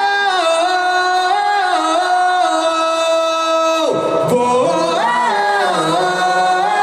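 Live singing of long held 'whoa' vowel notes that step up and down in pitch, with a short break about four seconds in. There is little or no instrumental backing.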